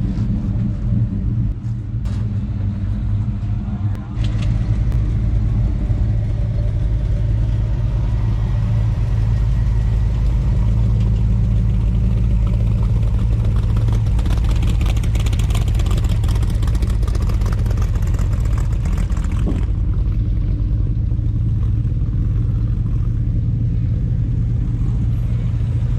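An engine running steadily at one constant speed, with a hiss laid over it for several seconds in the middle.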